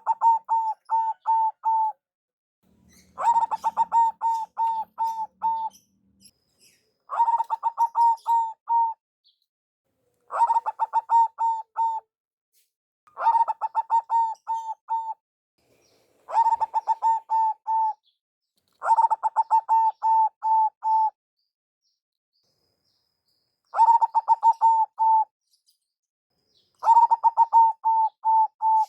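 Zebra dove (perkutut) singing: about nine phrases, one roughly every three seconds, each a quick run of short cooing notes.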